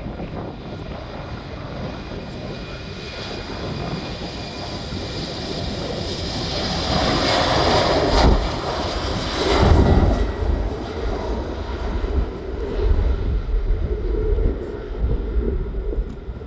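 Jet airliner taking off: the engine noise builds, is loudest about halfway through as the aircraft passes, then drops back to a lower rumble that carries on.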